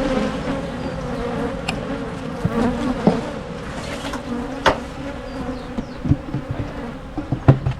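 Honey bee colony buzzing steadily around an open brood box, with several sharp wooden knocks as the crown board goes back on, most of them near the end.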